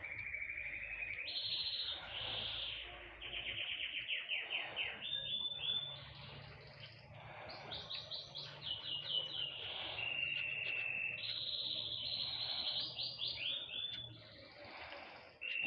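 Small songbird singing a continuous song: runs of rapid repeated trill notes alternating with steady held whistled notes, with a brief dip about a second before the end.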